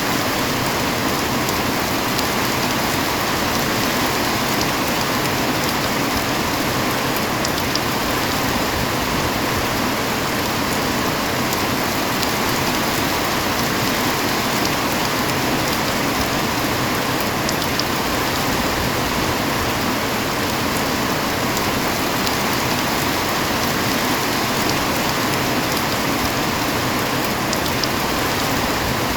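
Steady rain falling, an even hiss of drops on surfaces at a constant level, with a few faint separate drop ticks.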